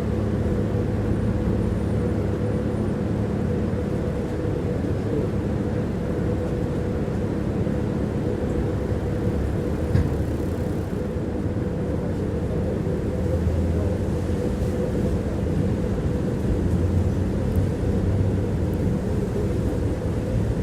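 Tram running along its line, heard from inside the passenger car: a steady rumble from the wheels with a motor hum, and one sharp knock about halfway through.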